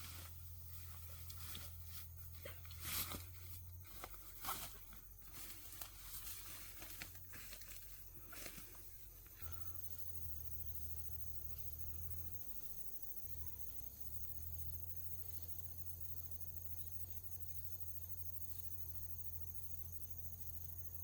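Scattered crackling and rustling, like something being torn or crushed, over the first several seconds. After that a steady high insect trill carries on over a low hum.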